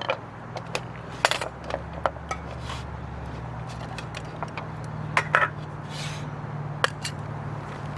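Camp cookware and utensils clinking and knocking: a handful of sharp, irregular metallic clicks, over a steady low hum.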